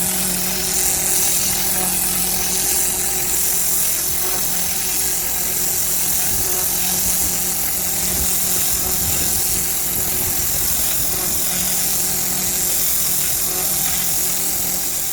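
Pressure washer spraying a driveway: a loud, steady hiss of the water jet over a constant hum from the machine.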